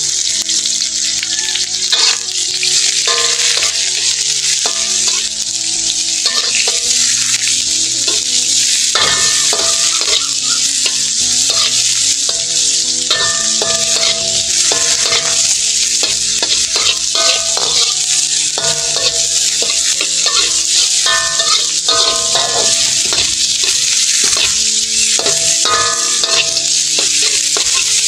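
Chopped garlic, ginger and lemongrass sizzling in hot oil in a wok, with a metal spatula scraping and clattering against the pan as they are stir-fried.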